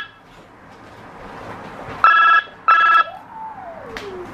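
Telephone ringing with a double ring, two short rings in quick succession about two seconds in.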